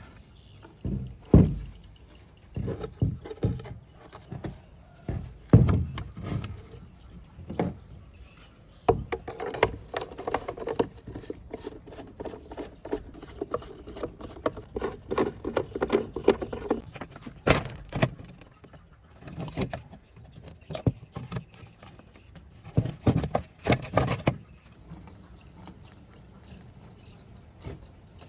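Irregular knocks, clicks and scraping from parts and tools being handled while an old Sony tape recorder is taken apart, with the two loudest knocks about a second and a half and five and a half seconds in.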